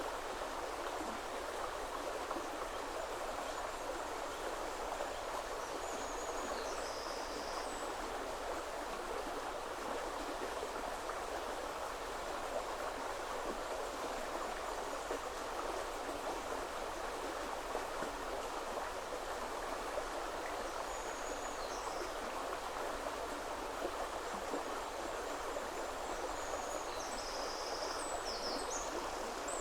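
Steady rushing of a woodland river. Brief high-pitched bird chirps come about six seconds in and again in several short runs near the end.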